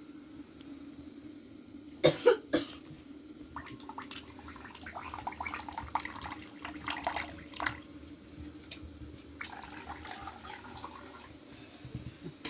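A few harsh coughs about two seconds in, then several seconds of splashing liquid with small clicking handling sounds.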